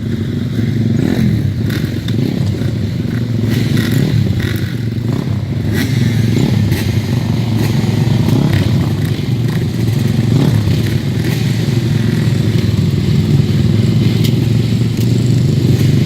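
Motorcycle engine running steadily, with scattered clicks and clatter.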